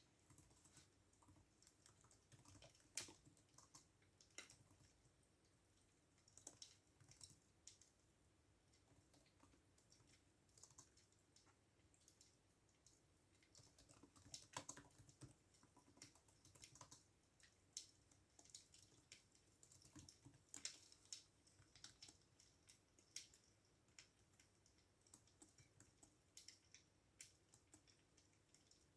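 Quiet computer keyboard typing: irregular runs of short key clicks, with one sharper keystroke about three seconds in.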